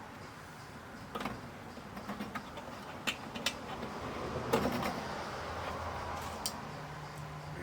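Scattered light clicks and small knocks from plastic retaining clips around an LCD TV panel being pried loose by hand, with the panel shifting in its frame.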